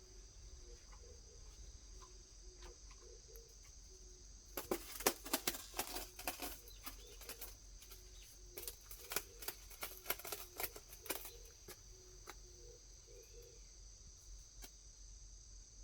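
A kitten clawing at a styrofoam flowerpot: a run of rapid scratching strokes starting about four and a half seconds in and lasting about seven seconds, over a steady chirring of insects.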